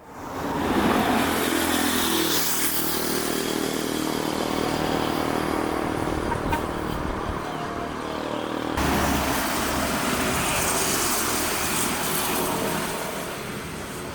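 Motor vehicle engine noise with road and traffic sound, changing abruptly about nine seconds in.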